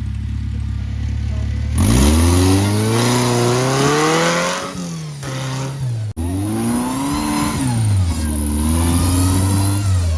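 Off-road 4x4's engine revving hard under load. A steady low running note rises about two seconds in, climbs and falls back, cuts out for a moment just after six seconds, then climbs and falls again.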